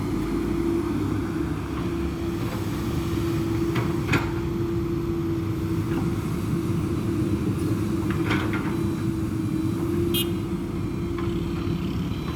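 Mitsubishi Canter dump truck's diesel engine running steadily with a constant low drone, with a few brief clicks and rattles about 4, 8 and 10 seconds in.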